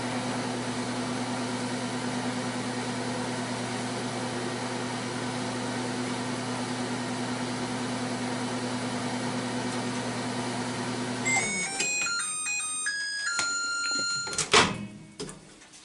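LG Smart Inverter microwave oven running with a steady hum through the last seconds of its cooking cycle. The hum cuts off about three-quarters of the way in, and the oven plays its short beeping end-of-cycle tune, followed by a single clunk.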